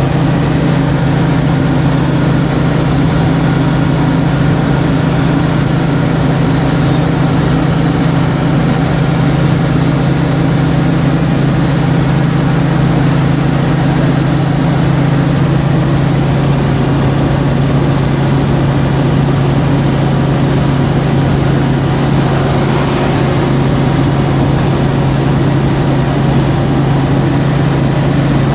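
Steady low drone of a vehicle driving on the highway as heard from inside it: engine hum and tyre noise, unchanging throughout.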